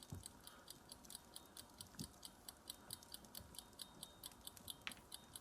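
Faint crackling of a wood fire: quick, uneven snaps and pops several times a second, with a few duller knocks.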